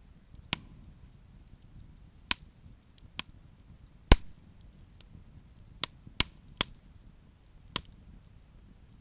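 Wood fire crackling: about eight sharp, irregular pops from the burning firewood, the loudest about four seconds in, over a faint low rush of the fire.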